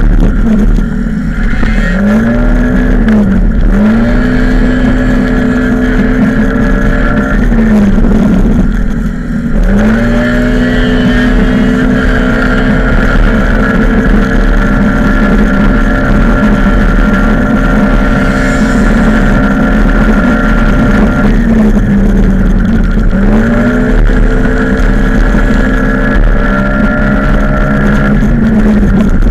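Small-displacement motorcycle engine heard from its own onboard camera, held at high, steady revs down the straights. The revs drop and climb back about four times as the bike slows for corners and accelerates out.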